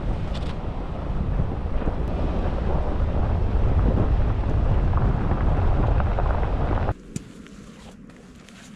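Wind buffeting the microphone with a heavy, steady rumble that cuts off abruptly about seven seconds in, leaving a much quieter background with a few sharp clicks.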